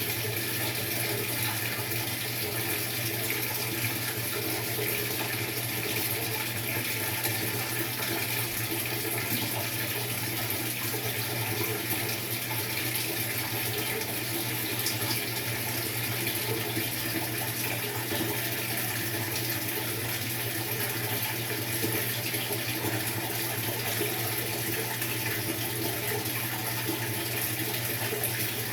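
Maytag MVWX655DW1 top-load washer running its tub clean cycle: water rushing steadily in the tub, with a steady low hum underneath.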